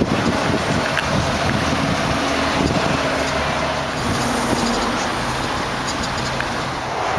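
2001 Cadillac Seville STS's 32-valve Northstar V8 idling steadily, with a rushing noise over it.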